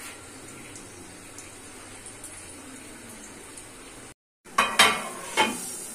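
Food frying in hot oil, a steady faint sizzle. After a brief break about four seconds in, several sharp clinks and clatters of utensils or pots.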